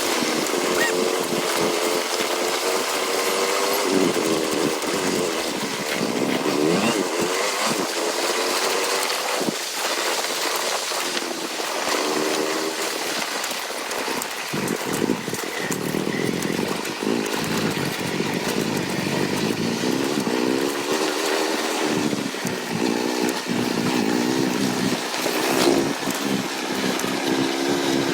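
Motorcycle engine running while the bike is ridden, its pitch rising and falling with changes in throttle, over steady wind noise.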